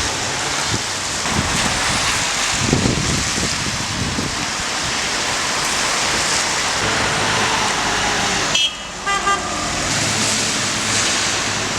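Heavy rain pouring down in a steady hiss, with traffic in it; a car horn toots briefly about nine seconds in.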